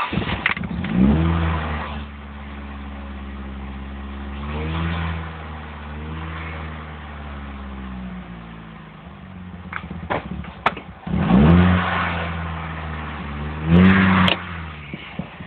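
Nissan CA18DET 1.8-litre turbocharged four-cylinder just started: it revs up briefly, settles to a steady idle with two small throttle blips, then is revved harder twice before the sound falls away near the end. Heard from inside the car's cabin.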